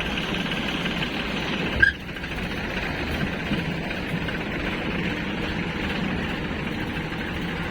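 Diesel engine running steadily at a low idle, with one brief loud knock just under two seconds in.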